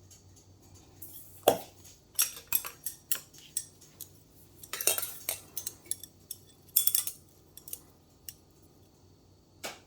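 Eating utensil clinking and scraping against a bowl as food is stirred or scooped, a run of irregular sharp clicks with the loudest about a second and a half in.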